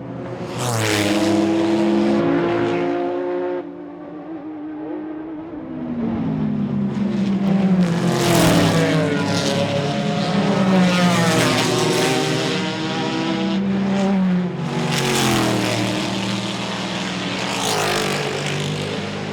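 Chevrolet Corvette C5-R racing V8 engines revving hard, with the pitch climbing through the gears and dropping again over several runs. There is a sudden cut a few seconds in.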